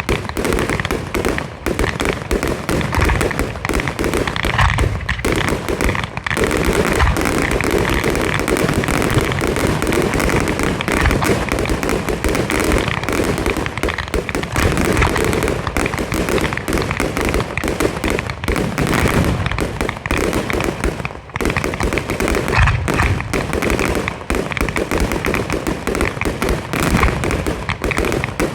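Fireworks display firing a dense, almost unbroken barrage of launches and bursts, with rapid crackling. It eases only briefly about two-thirds of the way through.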